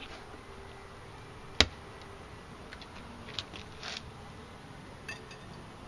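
Honeybees buzzing faintly around an open beehive, with one sharp click about a second and a half in and a few lighter clicks and scrapes later as the hive equipment is handled.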